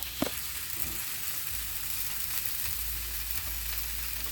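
Rice frying in oil on a Blackstone flat-top griddle, a steady sizzle, with one short sharp clink just after the start.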